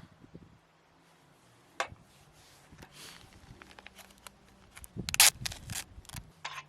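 Close handling sounds: scattered clicks and short rustles, busiest about five seconds in, over a faint steady low hum.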